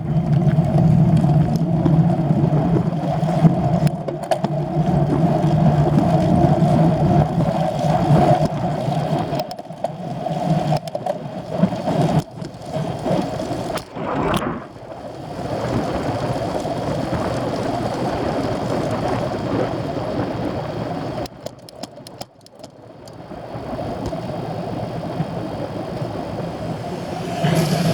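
An engine running with a steady drone that eases off briefly a little after halfway and dips about three quarters through, then comes back.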